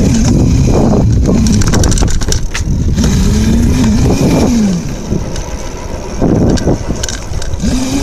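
Small dirt bike engine running as it is ridden, its pitch rising and falling with the throttle; it drops back and eases off about five seconds in, then picks up again near the end.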